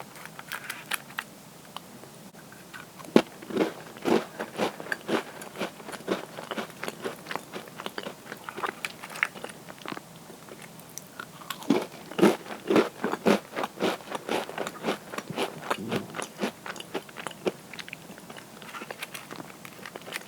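Crunchy cookies being bitten and chewed close to the microphone: a sharp bite a few seconds in, then spells of brittle crunching chews.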